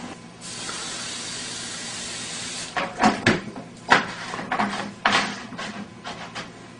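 Aerosol fuel hissing steadily for about two seconds as it is sprayed into a potato cannon, then several sharp clicks and knocks as the cannon is handled and readied.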